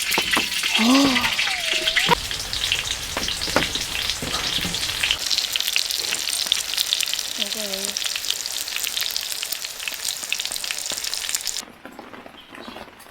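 Breaded pork cutlets (tonkatsu) frying in hot oil: a dense, steady sizzle full of fine crackles, which cuts off abruptly near the end.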